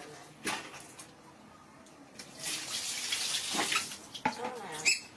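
Water running and splashing for about a second and a half in the middle, as a monkey is bathed.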